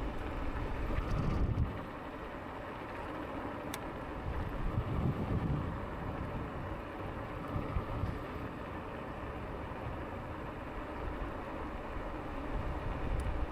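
Wind noise on the microphone and rolling rumble of a Lankeleisi X2000 e-bike riding along a path, louder for the first couple of seconds.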